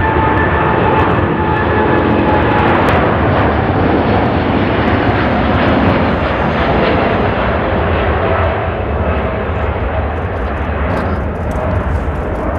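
Boeing 787-10's Rolls-Royce Trent 1000 engines at take-off thrust: a steady jet rumble with whining fan tones that slowly fall in pitch as the airliner passes and climbs away.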